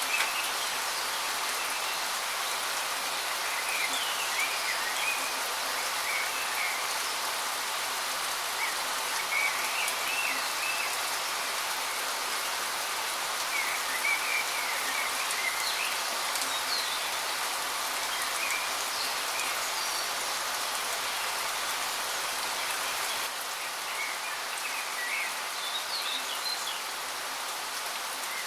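Waterfall rushing steadily, with birds chirping in short bursts every few seconds over it.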